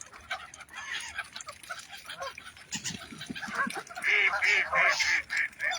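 Geese honking: scattered quieter bird calls, then a run of about six loud, repeated honks from about four seconds in.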